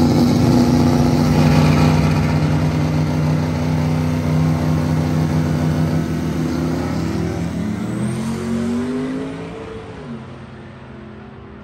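Drag-racing truck's engine running hard with a steady drone. Near the end its pitch climbs, then drops off, and the sound fades away.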